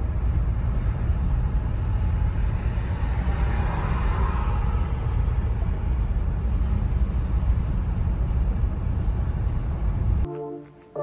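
Road and engine noise inside a moving Honda Civic's cabin: a steady low rumble, swelling briefly about four seconds in. Near the end it cuts off abruptly and brass music begins.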